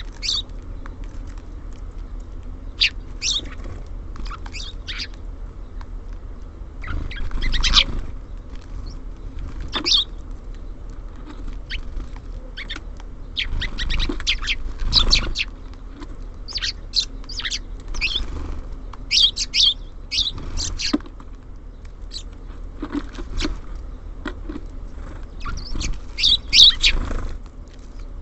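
Small songbirds at a feeder giving short, high chirps scattered throughout, with a few louder bursts of wing flutter as birds come and go.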